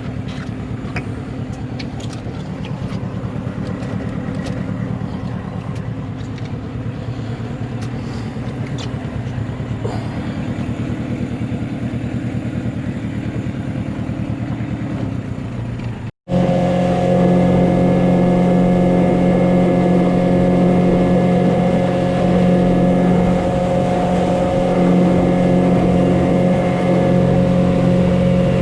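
Mercury 15 hp two-stroke outboard motor running at lower speed, then after a brief break, running louder and very steady for the rest of the time.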